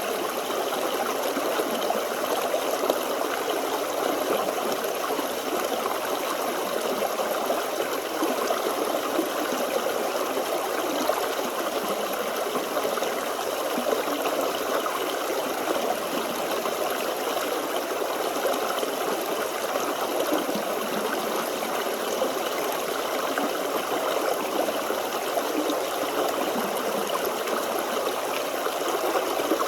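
Small forest stream flowing steadily, water burbling and splashing over stones in a continuous rushing trickle.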